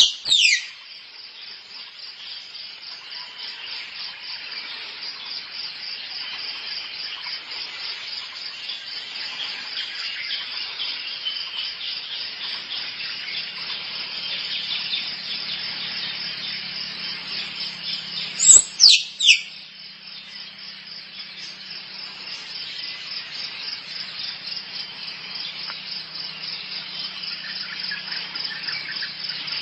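Squirrel mating calls: a fast, continuous chatter, broken by loud, sharply falling squeaks right at the start and twice in quick succession about two-thirds of the way through.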